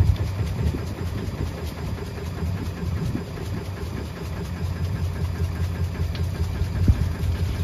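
Bosch washing machine running, a steady low hum with a few short knocks.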